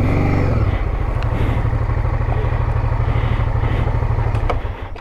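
Honda Transalp 650 V-twin engine running steadily while riding, with wind and road noise. The engine sound drops away sharply near the end.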